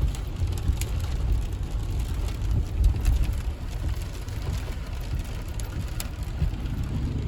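Car driving in the rain, heard from inside the cabin: a steady low road rumble, with scattered raindrops ticking on the car.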